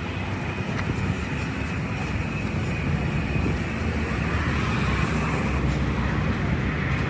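A steady low mechanical rumble, like a running engine or machine, growing slightly louder toward the end.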